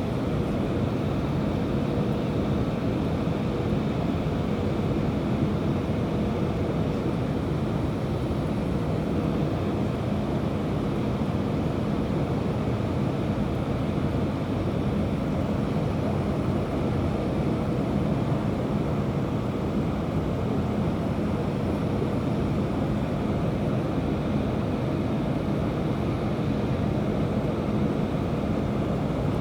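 Steady roar of an Airbus A319 airliner's engines and airflow heard inside the passenger cabin during the approach, with a faint steady hum underneath.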